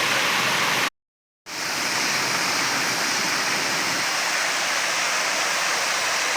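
Waterfall rushing steadily, broken by a sudden half-second gap of silence about a second in, after which the rush fades quickly back in.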